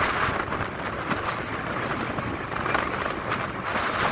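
Wind buffeting the microphone on a moving harbour tour boat: an uneven rushing noise with a low rumble underneath.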